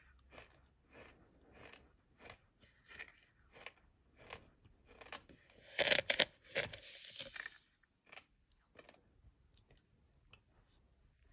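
A mouthful of sand being chewed: gritty crunching at about two chews a second, with a louder, sharper burst of crunching about halfway through.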